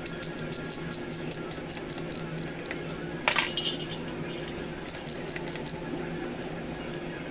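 A single sharp metallic clink about three seconds in, over a steady low hum and a fast, regular high ticking that stops partway through.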